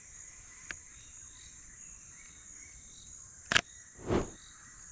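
Steady high-pitched insect chorus, with a faint click under a second in, a sharp loud click about three and a half seconds in and a duller thump half a second later.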